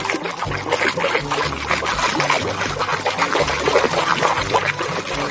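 Water splashing and trickling as a muddy plastic toy animal is washed by hand in a basin of clean water.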